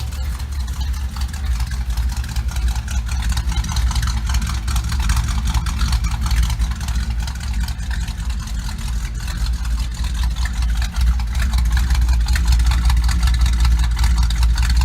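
1962 Chevrolet Impala engine running steadily, mostly a low, deep sound, getting a little louder in the last few seconds.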